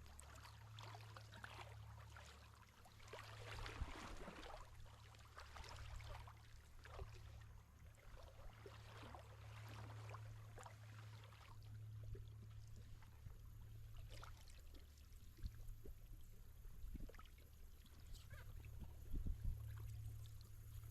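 Faint kayak paddling: the paddle blade dipping and water trickling off it in soft strokes every couple of seconds.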